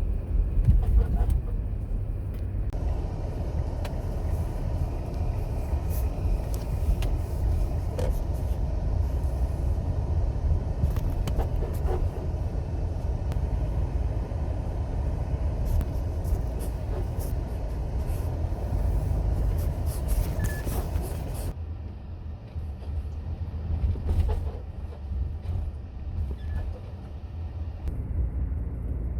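Kia Sorento R on the move, a steady low road rumble with scattered short creaks and clicks from the rear suspension; the sound eases and quietens about two-thirds of the way through. The creaking is a winter underbody noise that came back after the lower suspension was replaced, which the owner suspects comes from the rear upper arms.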